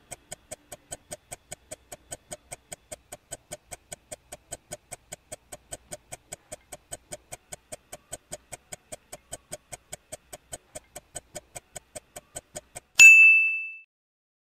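Countdown-timer sound effect: quiet, even ticking at about four ticks a second, ended by one loud bell-like ding about 13 seconds in that marks the answer being revealed.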